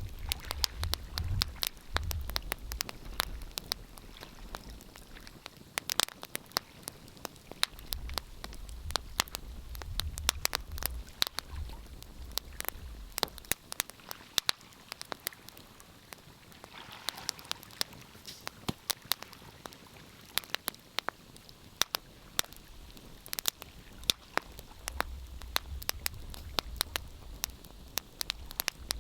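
Wood fire crackling in a fireplace: irregular sharp pops and snaps throughout, over a low rumble that comes and goes.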